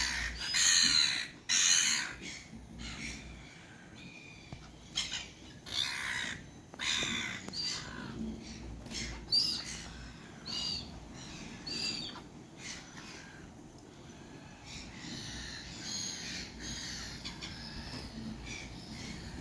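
Gulls calling, a run of separate cries from several birds, the loudest in the first two seconds, and a denser stretch of overlapping calls about fifteen seconds in.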